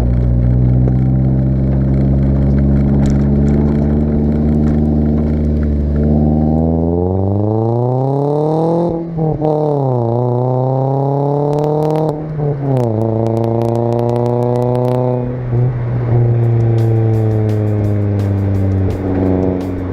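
2013 Toyota Corolla four-cylinder engine through an aftermarket Borla exhaust, droning at a steady low idle and then revving up. The revs fall sharply and climb twice, as with upshifts, then hold and ease back down to a steady low drone.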